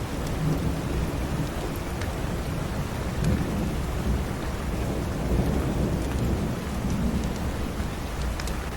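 Steady rain hissing, with a low rumble of thunder swelling up and rolling through the middle and easing toward the end. A few faint crackles from a fireplace fire.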